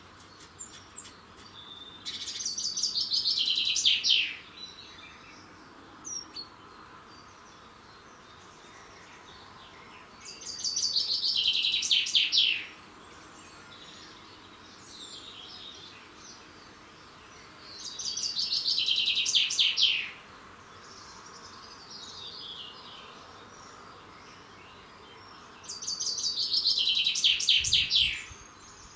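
A songbird singing the same short phrase four times, each song about two seconds long and about eight seconds apart, with faint chirps from other birds in between.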